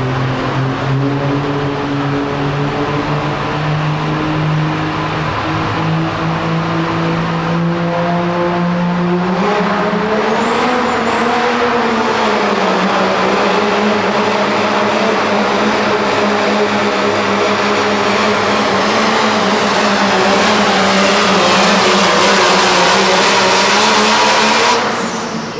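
Pro Street diesel pickup truck pulling a weight sled at full throttle. The engine's pitch climbs slowly through the first ten seconds, then a high rising whistle joins and the roar builds to its loudest before cutting off suddenly near the end.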